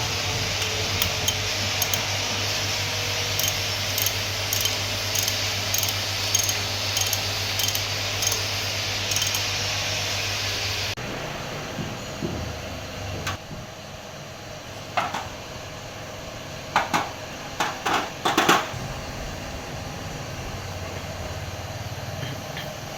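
A motor-driven workshop machine runs with a steady hiss over a low hum, cutting off abruptly about eleven seconds in. Then several sharp metallic clinks and knocks of tools handled on metal parts.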